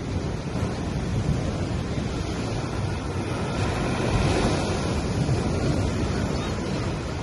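Gentle ocean waves washing onto a sandy beach: a continuous surf wash that swells about four seconds in.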